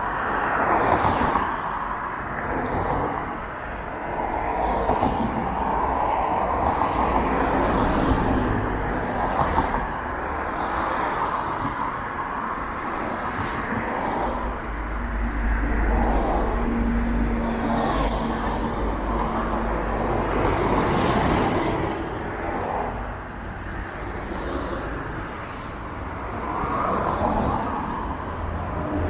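Road traffic noise of cars passing, with a heavier low rumble of a larger vehicle going by about fifteen to twenty seconds in.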